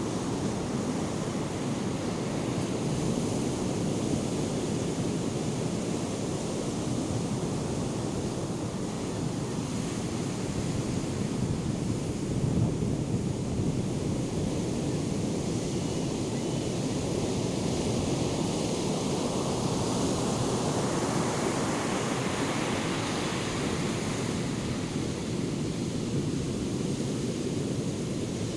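Ocean surf from a hurricane swell: a steady rumbling wash of breaking waves, with wind on the microphone. About three-quarters of the way through, a wave breaks more loudly and hisses brighter.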